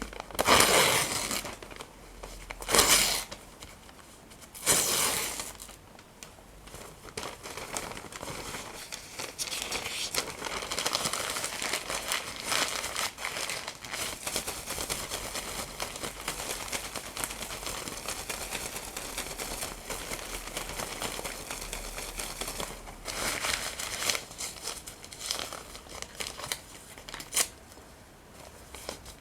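Paper handled close to the microphone: three loud rips in the first few seconds, then a long stretch of steady crinkling and crumpling, with a few more rips near the end.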